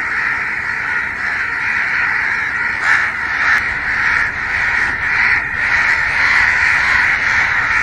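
Crows cawing harshly and continuously, a dense unbroken din that swells briefly around three and five seconds in.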